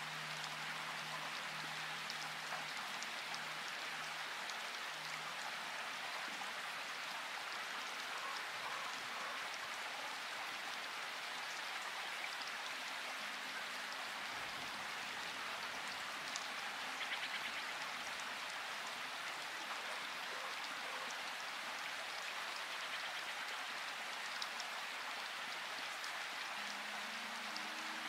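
Steady rain falling, an even hiss of drops. Faint low held tones come and go briefly near the start, in the middle and near the end.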